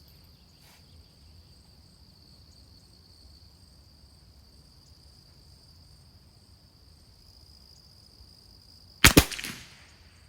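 A single .22 LR rifle shot about nine seconds in, a sharp crack with a short trailing echo, fired while sighting the rifle in. Crickets chirr steadily throughout.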